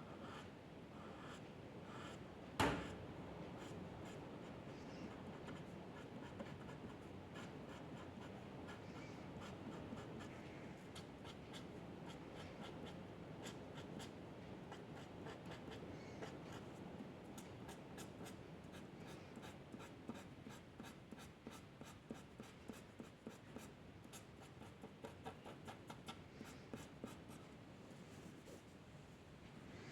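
A drawing tool scratching on paper in continuous strokes, with one sharp knock about two and a half seconds in. In the second half the strokes turn into many quick, short dabs.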